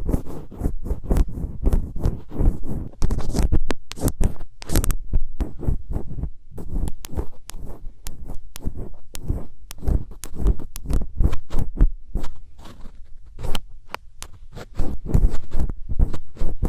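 ASMR ear cleaning with a thin ear pick: close, crackly scraping and tapping in quick, irregular strokes, busiest around four seconds in and again near the end.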